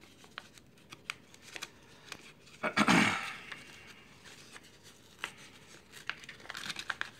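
Paper envelope and packing tape being handled and pulled apart: scattered small clicks and crinkles, with one louder burst of rustling about three seconds in.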